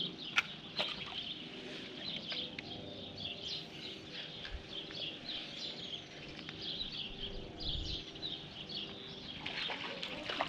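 Songbirds chirping and singing continually, many short high calls overlapping, over a faint low steady background hum. Two sharp clicks sound in the first second.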